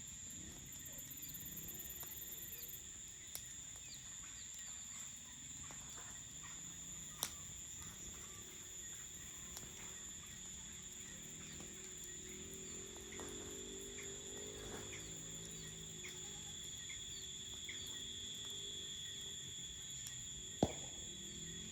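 Crickets trilling steadily and continuously, with a few sharp pops of a crackling campfire, the loudest about 7 seconds in and near the end.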